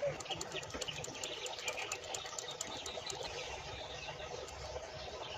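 Faint bird chirps over a run of light, rapid clicks during the first three seconds.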